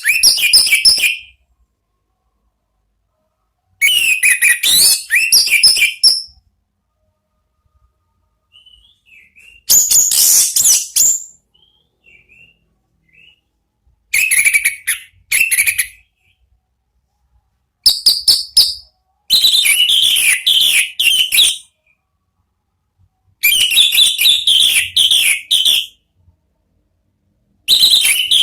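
Orange-headed thrush singing: loud, fast phrases of rich whistled and twittering notes, each lasting one to two seconds, separated by short pauses, with a few faint soft notes in the gaps.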